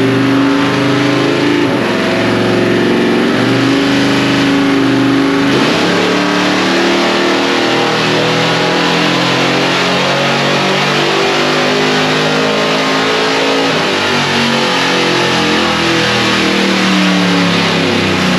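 The 1961 Ford gasser pickup's V8 runs loud and steady on a chassis dyno's rollers. Its pitch holds, then shifts up and down every few seconds as the revs change.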